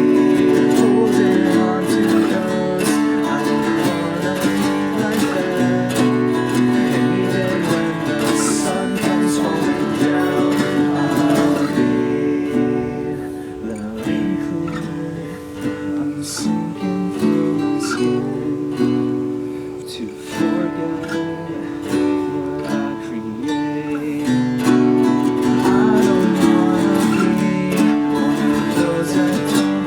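A band playing a song led by strummed acoustic guitar. It drops quieter about halfway through and builds back up near the end.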